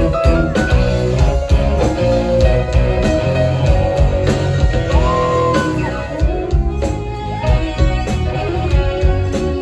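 Live band music: electric guitar playing held, bending lead notes over bass and drums.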